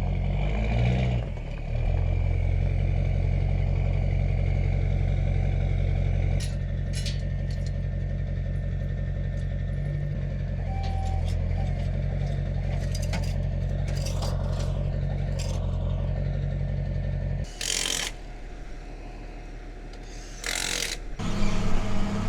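Tractor engine running steadily. Its note changes about six seconds in, and it drops away for a few seconds near the end, when a couple of short bursts of noise are heard.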